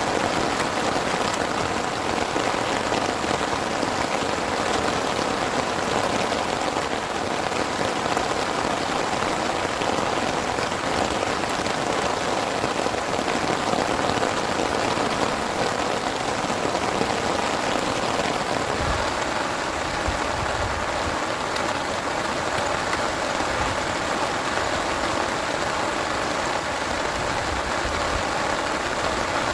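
Heavy rain falling steadily, a dense, even hiss of drops with a few brief low rumbles about two-thirds of the way in.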